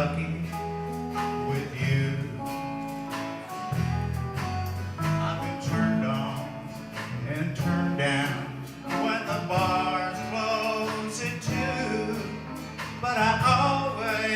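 Country band playing live: guitars and bass carry a steady instrumental passage, with a wavering melodic lead over them.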